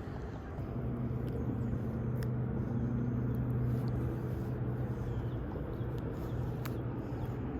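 A steady low engine hum that grows louder about half a second in and then holds, with a few faint sharp ticks over it.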